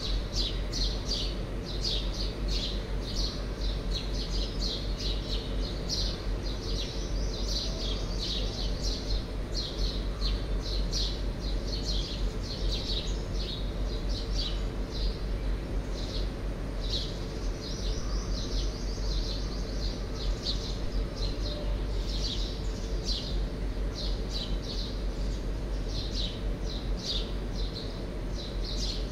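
Birds chirping, a dense run of short, high chirps throughout, over a steady low hum.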